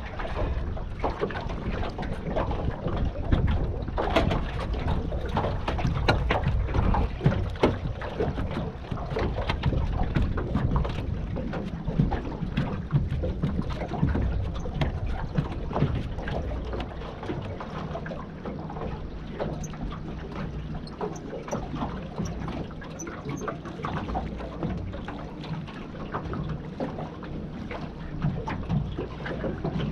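Low, rumbling wind noise on the microphone with many small clicks and knocks over it; it eases a little about two-thirds of the way through.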